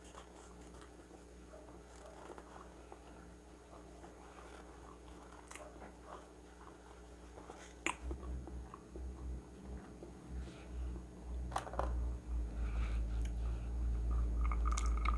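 Quiet close-up chewing and mouth clicks as food is eaten with the mouth closed. Near the end a glass of iced drink is lifted, with a faint clink of ice.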